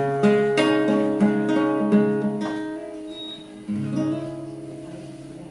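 Acoustic guitar strumming the closing chords of a song: a run of chords struck about every half second, then a final chord about four seconds in that is left to ring and fade.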